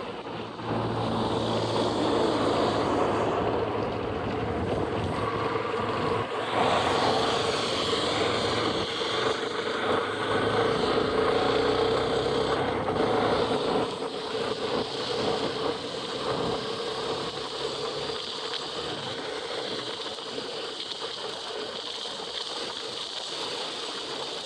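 Motorcycle riding on a highway in rain: steady engine drone mixed with wind and road rush at the helmet. It grows louder about a second in and eases off after about fourteen seconds.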